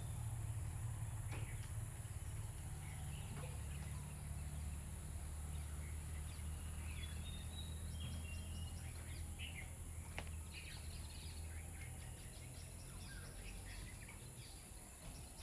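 Scattered short bird chirps over a steady low hum and a constant high-pitched hiss, with a couple of faint clicks.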